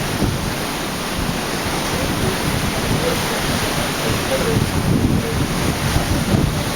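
Wind buffeting the microphone over a steady rush of sea water alongside a cruise ship under way.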